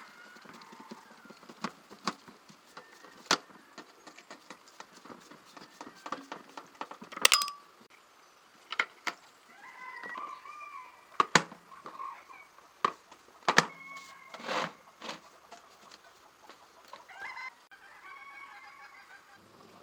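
Irregular sharp clicks and knocks, as of tools and parts being handled during a repair, with a few short pitched calls about halfway through and again near the end.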